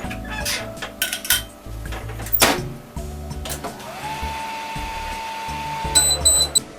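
Microwave oven being operated: a few clicks and knocks of the door and buttons, then the oven running with a steady low hum and a held whining tone, ending with three short high beeps as the cycle finishes.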